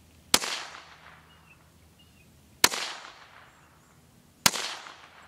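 Three gunshots about two seconds apart, each a sharp crack followed by a short echo fading out.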